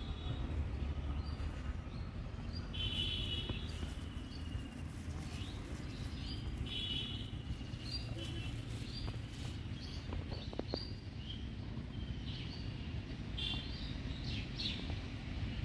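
Small birds chirping and trilling in short repeated calls over a steady low outdoor rumble.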